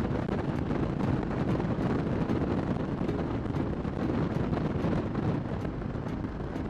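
Kawasaki Nomad 1600's V-twin engine running while the motorcycle is ridden along, under steady wind noise on the microphone.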